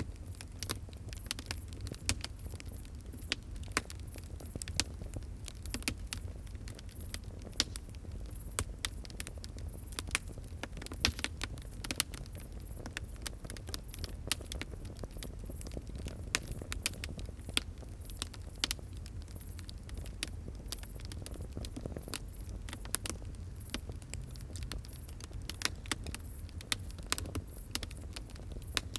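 Wood fire burning with a steady low rumble of flames and irregular sharp crackles and pops.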